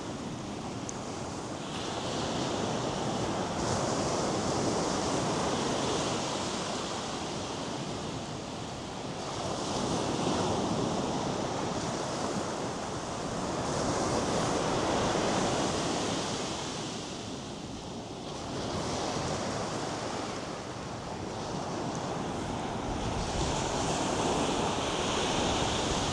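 North Sea surf breaking on a sandy beach, the wash of the waves swelling and easing every four to six seconds, with wind in the background.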